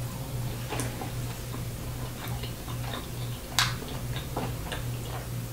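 A person chewing a mouthful of fried pork chop close to the microphone, with scattered small wet mouth clicks and lip smacks and one sharper smack about three and a half seconds in. A steady low hum runs underneath.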